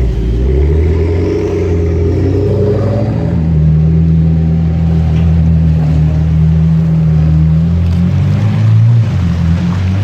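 Sports car engine running loud with a deep, steady note through the middle, its pitch shifting and swelling briefly about eight seconds in.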